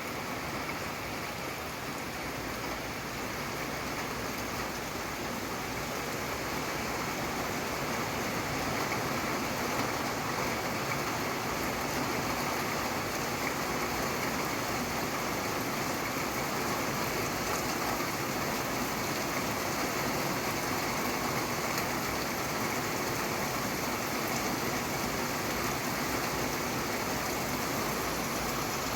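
Steady rain falling and pattering on surfaces, an even hiss with no distinct drops or thunder, swelling slightly over the first several seconds.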